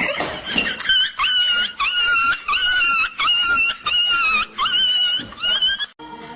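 An animal giving about eight short, high-pitched cries in quick succession; they stop abruptly near the end.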